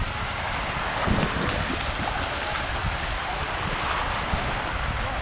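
Ocean surf washing steadily at the shoreline, with wind buffeting the microphone.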